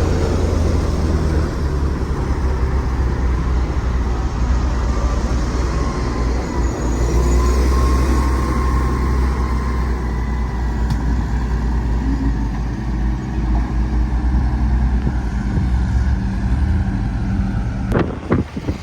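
Heavy diesel engine of a Sakai vibratory road roller running steadily, with a low hum. A few sharp knocks near the end.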